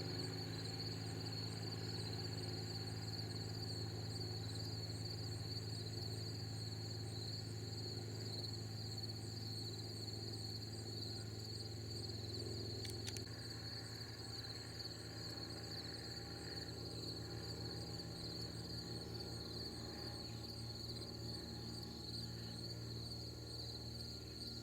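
Crickets chirping steadily in a fast, pulsing high trill, over a low, steady engine hum in the background.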